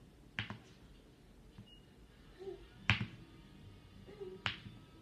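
Three sharp taps or knocks of kitchenware about a second and a half apart, the loudest about three seconds in, as tomatoes are put onto a tortilla.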